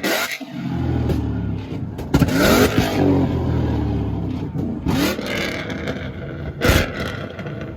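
Ford Mustang engine revving in short blips over a low, rough rumble, with sharp exhaust pops at the start and again near the end, from a two-step launch limiter tuned to shoot flames.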